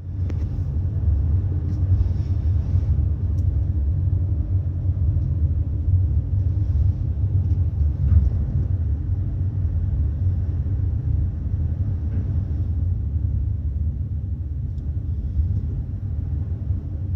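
Steady low rumble of a large car ferry's engines and machinery, heard from inside a passenger cabin as the ship manoeuvres to dock.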